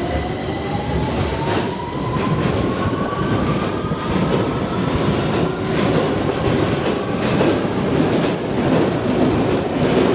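A London Underground Victoria Line train pulling out of the platform. Its traction motors whine, rising in pitch as it accelerates over the first few seconds, then its wheels clatter over the rail joints, a run of clicks, over a steady rumble.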